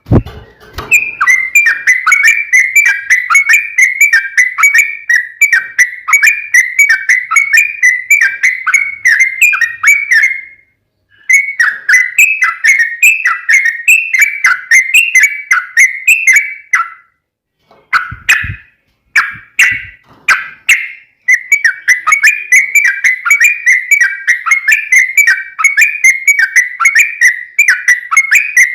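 Yellow-vented bulbul (trucukan) singing long, fast runs of repeated bubbling notes, broken by short pauses about ten seconds in and again around seventeen seconds. A brief thump comes near the second pause.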